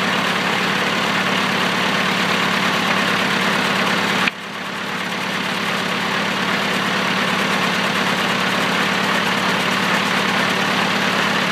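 Sawmill engine running steadily, with a steady low hum. The loudness drops suddenly about four seconds in, then builds back up over the next couple of seconds.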